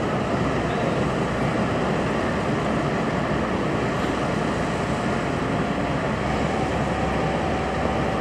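A train running with a steady rumble. A faint, steady high whine becomes clearer about six seconds in.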